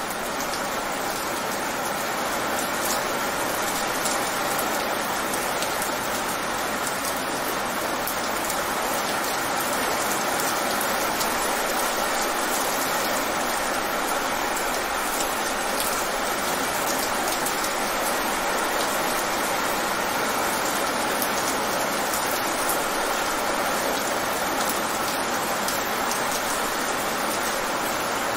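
Fast rain falling on pavement, a steady, dense splashing of countless drops on the wet surface.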